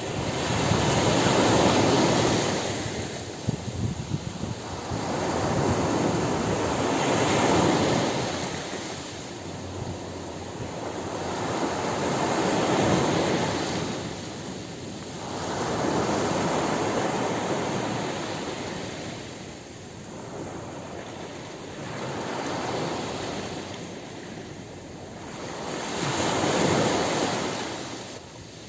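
Ocean surf breaking on a beach, the wash swelling and falling away in waves about every five seconds.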